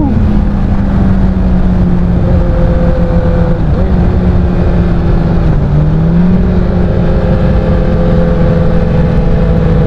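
Honda CBR1000RR's inline-four engine running steadily while the motorcycle is ridden, with wind rumbling on the helmet-mounted microphone. About five and a half seconds in, the engine note dips briefly and climbs back.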